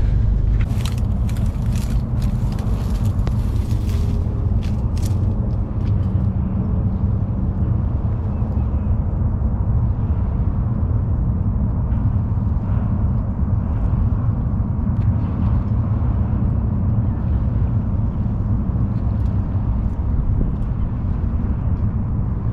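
A motorboat's engine running steadily under a heavy low rumble, with crackling wind or handling noise on the microphone in the first few seconds.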